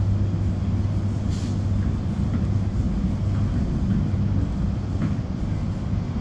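Train running along the track, heard from inside the carriage: a steady low rumble with a few faint clicks.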